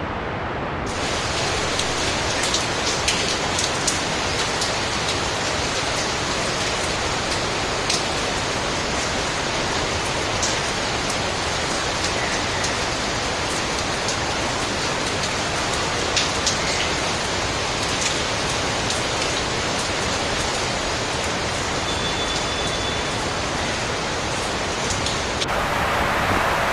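Steady heavy rain: a dense, even hiss with scattered drop ticks, its higher hiss filling in about a second in. Near the end it gives way to a stronger, wind-like rushing.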